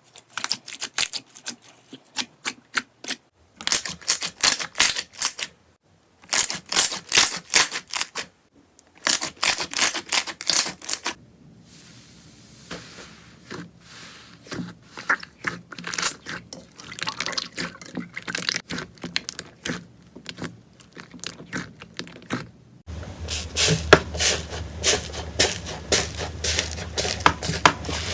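Slime being squeezed, pressed and stretched by hand, giving dense runs of sticky clicks, pops and crackles. There are several short segments with brief breaks between them, and a low hum under the last one.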